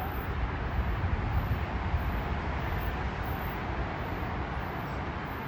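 Steady low rumble and hiss of railway platform surroundings as a commuter train approaches, with no distinct events.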